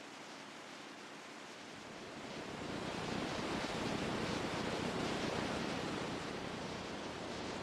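Rushing water, an even hiss that swells louder about two and a half seconds in and then holds steady.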